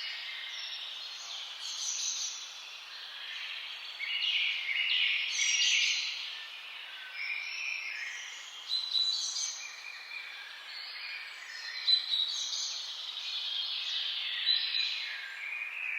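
Several songbirds singing and calling over one another, a dense, continuous mix of high chirps and trills, with a few louder notes standing out near the middle and toward the end.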